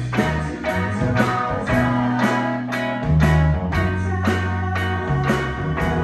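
Live band playing a blues-rock number: guitar over a walking bass line and a steady drum beat of about two strokes a second.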